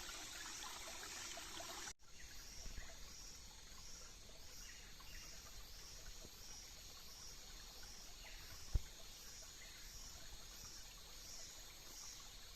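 Water trickling and pouring for about two seconds, then cutting off abruptly. Quieter rainforest ambience follows, with insects chirping in a steady pulse a little more than once a second and a single sharp click about nine seconds in.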